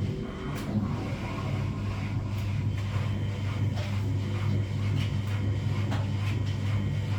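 Front-loading washing machine running, with a steady motor hum and irregular soft knocks and clicks. The hum dips briefly about half a second in and then carries on.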